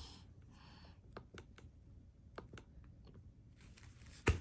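Light clicks and taps on the device running the lesson, about half a dozen faint ones spread out, then one sharper, louder knock near the end.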